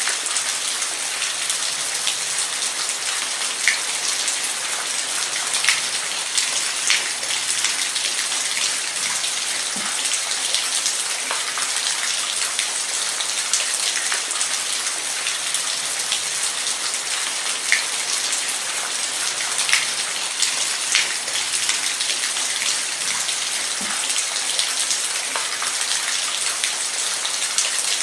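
Steady rain falling, an even hiss with scattered sharp drop ticks striking a surface close by.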